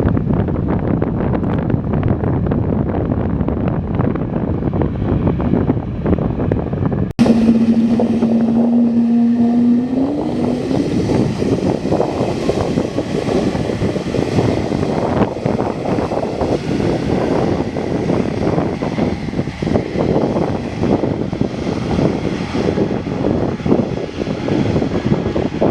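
Aircraft engine noise mixed with wind rumbling on the microphone. About seven seconds in the sound cuts abruptly, then a steady tone holds for a few seconds and rises slightly, over a broader engine hiss that continues.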